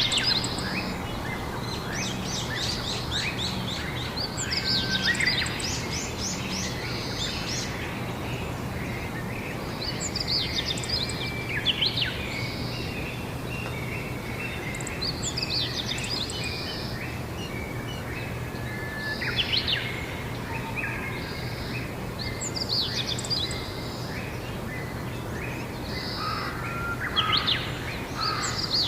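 Wild songbirds singing outdoors, short chirping song phrases every few seconds, over steady background noise with a low hum.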